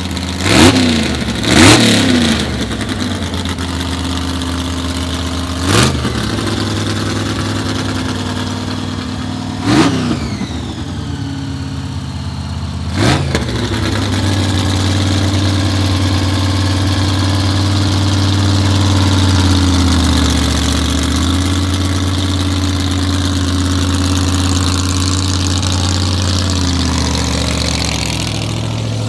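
Supercharged small-block Chevy V8 (a 327 punched out to 365 cubic inches under a GMC blower) in a 1962 Corvette gasser, idling and blipped by the throttle about five times in the first thirteen seconds, each rev rising and dropping quickly. After that it settles into a steady idle.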